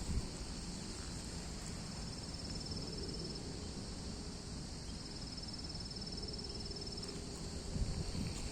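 Crickets and other insects in a steady high chorus, with two rapid high trills among them, each a second or two long, about two and five seconds in. Low rustling underneath, and a few footsteps thudding near the end.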